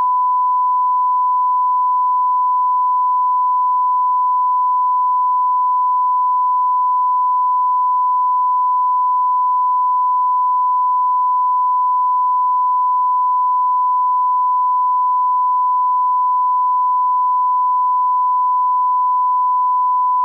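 1 kHz line-up reference tone accompanying broadcast colour bars: a single steady, unbroken tone at constant level, used to set audio levels at the head of a programme tape.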